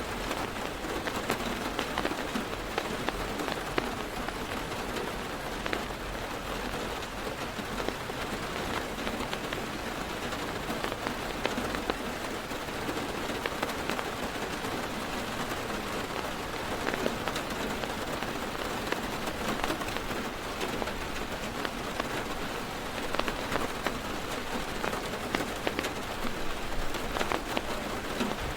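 Steady heavy rain drumming on a car's roof and windows, heard from inside the car, with many individual drops ticking through a constant patter.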